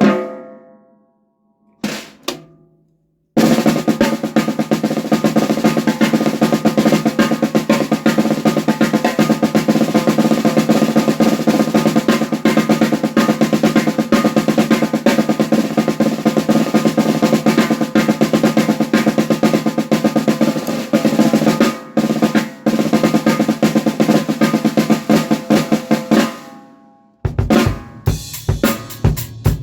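Noah Pure Alloy 14x6.5" aluminium snare with Remo UT heads: a stroke rings out, a single hit follows about two seconds in, then a long fast roll runs for over twenty seconds before dying away. Near the end a drum-kit beat starts, with bass drum strokes under the snare.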